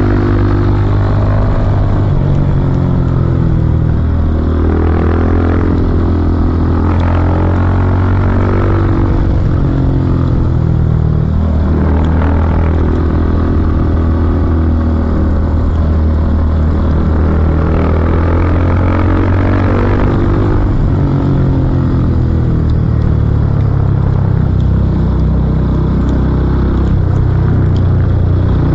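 Yamaha YBR 250's single-cylinder engine running under way, its pitch rising and falling repeatedly as the rider accelerates and eases off.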